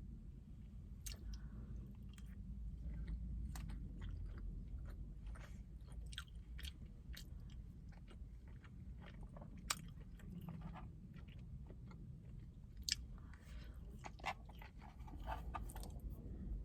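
A person chewing food close to the microphone: wet mouth clicks and short crunches, repeated through the whole stretch, over a steady low rumble.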